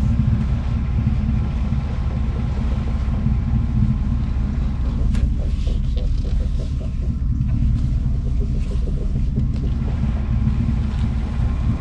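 2015 Chevy Silverado's engine idling with a steady rumble while the steering is turned, with faint clicking and creaking from the front control arm bushings, a sign that the bushings are dry and worn.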